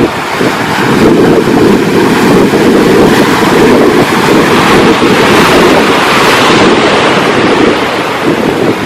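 Loud sea surf and wind buffeting the microphone. The hiss of the waves swells about five to seven seconds in.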